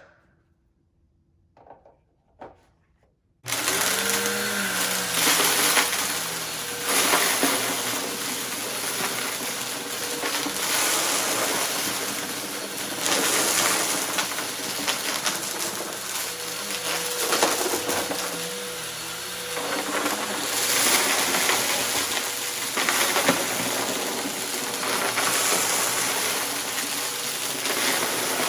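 Upright vacuum cleaner switched on about three and a half seconds in, its motor spinning up and then running steadily while it vacuums a mess-test rug, with a rattle of debris being picked up. A few small clicks come before it starts.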